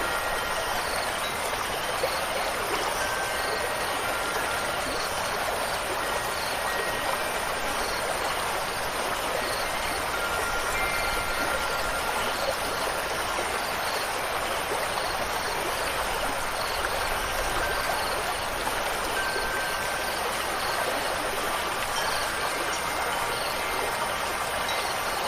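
Steady rush of running stream water, with faint short ringing wind-chime tones now and then.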